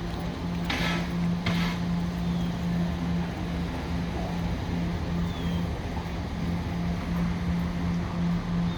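Staten Island Railway electric train standing at a platform, its equipment giving a steady low hum, with two short hisses of air about a second in.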